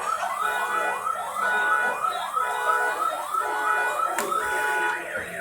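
Emergency vehicle siren in a fast yelp, its pitch sweeping up and down about three times a second, stopping about four seconds in.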